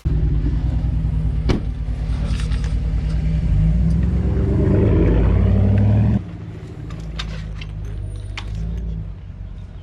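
Motor vehicle engine running with a low, pulsing drone, building over a few seconds as it pulls harder, then dropping suddenly to quieter, steady running about six seconds in.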